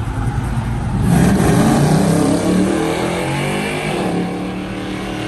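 A car accelerating hard from a standstill and passing close by. About a second in the engine note jumps loud and revs up, then its pitch falls as it goes past.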